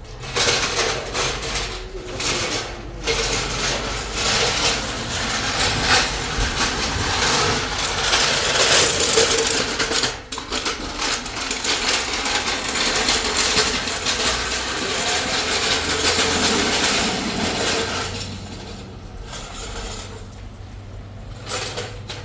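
Repeated metallic clinks, knocks and rattles of hand tools worked on metal. They are busy for most of the stretch and thin out near the end.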